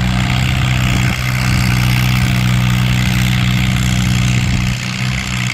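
Antique farm tractor engine pulling a sled under load in low gear, running with a steady low drone. Its loudness dips briefly about a second in and again near the end.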